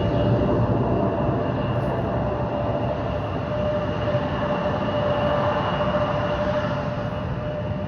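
Jet aircraft engines running steadily, a constant rush of noise with a steady whine on top.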